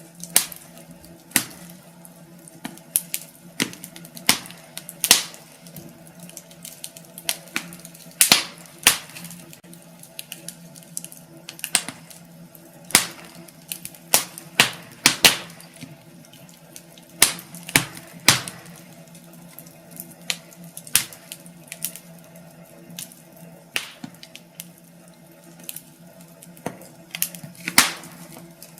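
Wood fire in a fireplace crackling: irregular sharp pops, several of them loud, over a soft steady hiss and a faint low hum.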